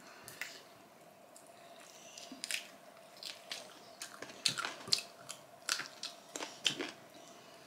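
Close-miked chewing and biting of fried trout and rice, with a run of sharp wet mouth clicks and smacks from about two seconds in, thickest near the end. A faint steady hum lies underneath.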